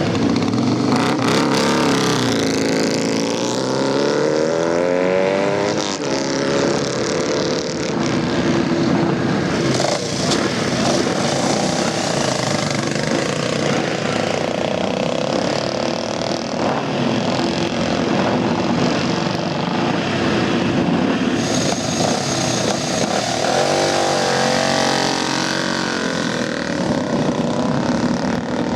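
Motorcycle engines running loudly, revving with rising pitch as they accelerate, once a few seconds in and again near the end.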